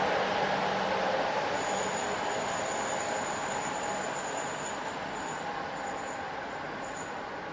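A train rolling along the track, its running noise fading steadily as it moves away. A thin, high wheel squeal sets in about a second and a half in, then comes and goes.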